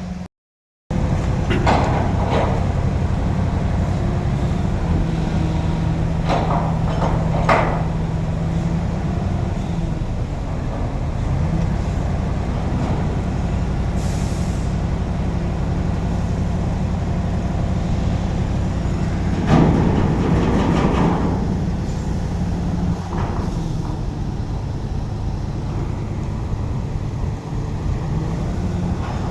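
Heavy truck's diesel engine running steadily, with several short noisy bursts on top, the loudest about twenty seconds in, and a brief high hiss around the middle. The sound cuts out for half a second just after the start.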